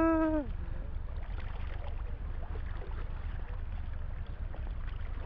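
Steady low rumble of wind buffeting the microphone, with a faint hiss over it. A short falling vocal sound comes right at the start.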